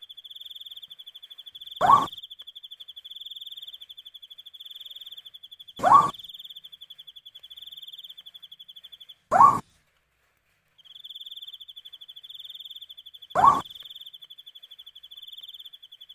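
An owl giving a short call that rises in pitch, four times about four seconds apart, over a steady, fast, high cricket trill. The trill drops out briefly about halfway through.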